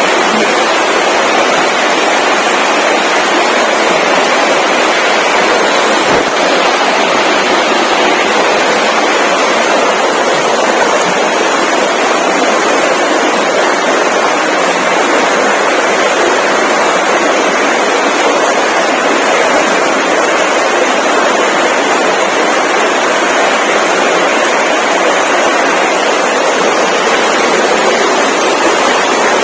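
Steady, loud rushing noise without breaks or pitch.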